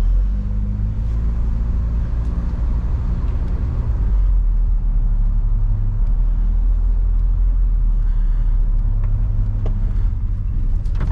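Car engine and road rumble heard from inside the cabin while driving; the low drone shifts in tone about four seconds in.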